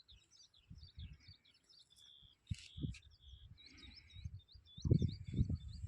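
Small birds chirping in quick, repeated short notes, one giving a longer held note a couple of seconds in. Irregular low thumps run underneath and are loudest near the end.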